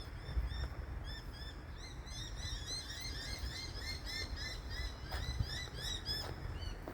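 A flock of small birds chirping in chorus: many short, high, quickly repeated chirps from several birds at once, thickening after about two seconds, over a low rumble.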